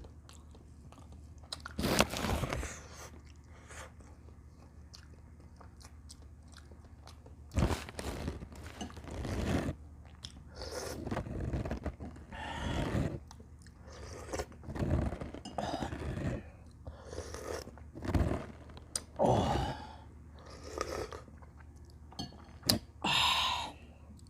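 Close-miked chewing and biting of someone eating camel bulalo with bone marrow, in irregular bursts every second or two.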